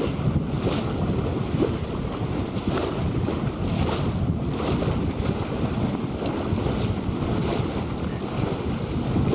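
Wind buffeting the microphone over water rushing and splashing along a sailboat's hull, with uneven hissy splashes.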